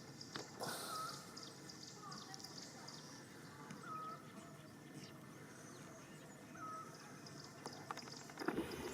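Faint outdoor ambience with a short, high chirp-like call repeating every second or two over a low steady hiss, and a muffled rustle or bump near the end.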